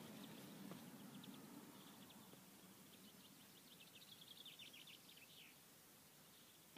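Near silence with a faint bird chirping in quick series in the background, fading out a little past the middle.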